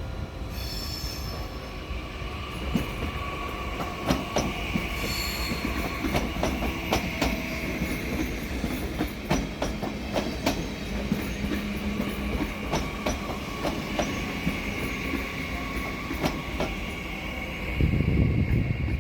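DB class 445 Twindexx Vario double-deck electric multiple unit rolling slowly into a station, its wheels squealing steadily on the track, with repeated clicks and clacks as it runs over rail joints and points. A loud burst of low rumbling comes near the end.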